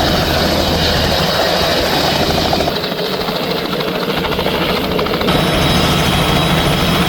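Helicopter running loudly: the steady beat of the rotor with the whine and hiss of its engine. The low rumble thins out abruptly about three seconds in and returns about five seconds in.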